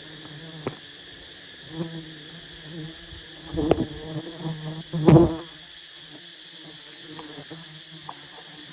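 Wild honey bees buzzing in a steady, pitched hum around their nest, swelling louder as bees pass close, with a few sharp knocks; the loudest swell and knock come about five seconds in.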